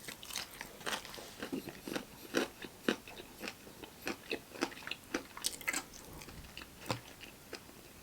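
Close-up crunching and chewing of crispy fried chicken, a quick run of sharp crackly bites and chews, several a second.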